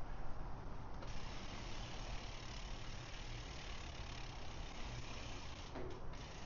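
Bicycle freewheel ticking as the bike coasts, over a steady rushing noise of riding.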